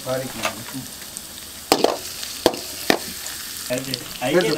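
Chopped aromatics, ginger among them, sizzling in hot oil in a steel kadai, with a few sharp metallic clanks about halfway through as a steel slotted spoon stirs them against the pan.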